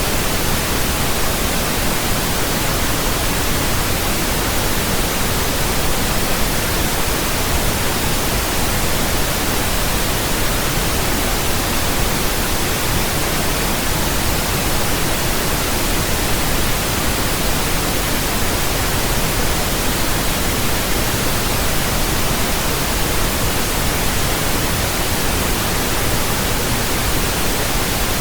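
Pink noise: a steady, even hiss across the whole range that does not change.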